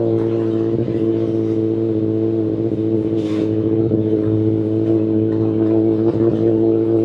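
Kawasaki Ninja ZX-10RR's inline-four engine idling steadily through an Akrapovic Evolution Line carbon full exhaust, shortly after a start-up, with a brief hiss about three seconds in.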